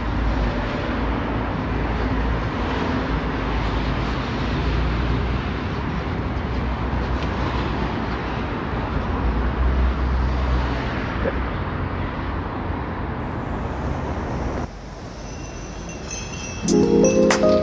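Steady vehicle road noise with a low rumble. It drops away about fifteen seconds in, and music begins near the end.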